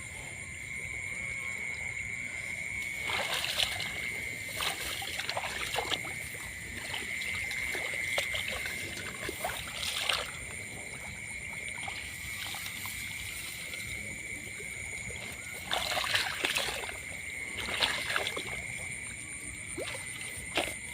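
Water splashing in short bursts a few times, over a steady high-pitched whine.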